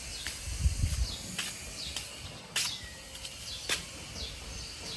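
Small birds chirping in short, repeated falling notes, with a few sharp clicks and a low thump about a second in.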